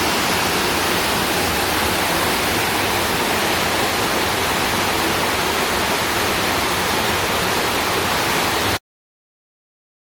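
Waterfall rushing steadily, an even hiss of falling water; the sound cuts off abruptly near the end.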